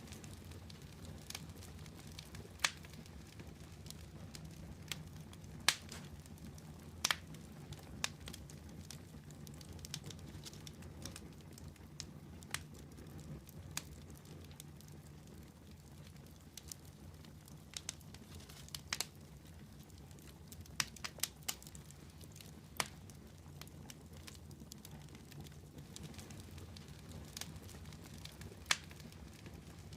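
Firewood burning in a fireplace: the low, steady rush of the flames with irregular crackles and sharp pops from the burning logs.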